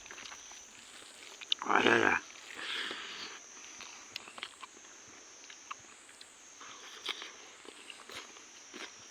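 Close-up eating sounds: small clicks and chewing of fried catfish and rice. A brief loud noise comes about two seconds in. A high-pitched drone swells and fades regularly throughout.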